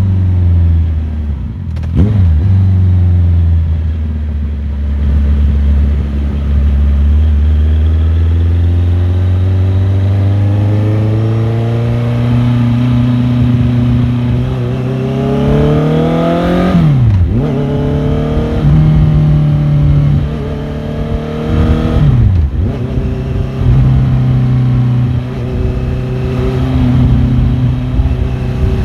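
Motorcycle engine under way, changing gear: a shift about two seconds in, then a long, slow rise in revs for about twelve seconds, a sudden drop in pitch at a gear change near seventeen seconds, and another shift a few seconds later.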